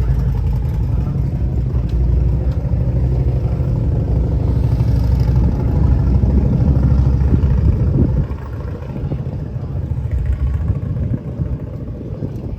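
A motorcycle engine running steadily, then dropping away about eight seconds in to a lower, uneven rumble.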